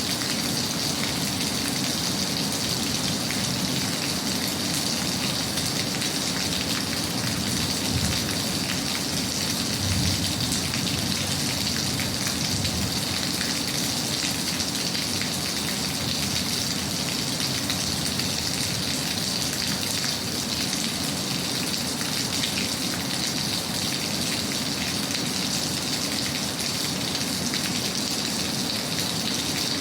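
Steady rain falling, an even patter with no break, and two brief low swells about eight and ten seconds in.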